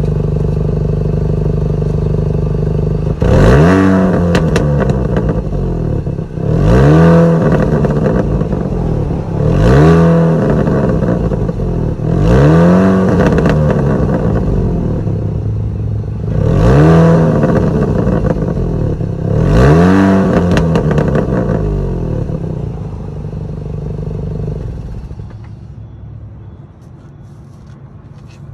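Mini Cooper S R53's supercharged 1.6-litre four-cylinder engine idling, then revved six times, each rev rising and falling back to idle. The sound grows much quieter near the end.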